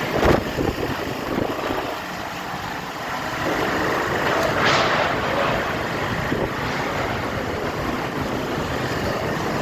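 Storm wind blowing over the microphone in a steady rush, with a stronger gust about five seconds in.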